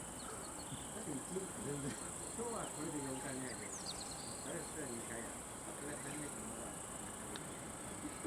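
Steady, high-pitched insect chirring, as of crickets, running without a break.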